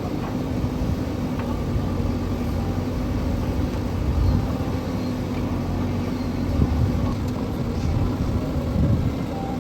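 Tractor's diesel engine running steadily, with a few louder low rumbles.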